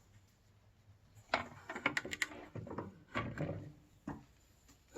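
A quick run of knocks and clicks as hard objects are handled and set down on a work surface, bunched together a little over a second in and again around three seconds in.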